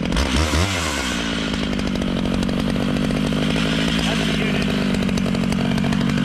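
Stihl MS 881 two-stroke chainsaw running steadily, with a brief swing in engine pitch about half a second in.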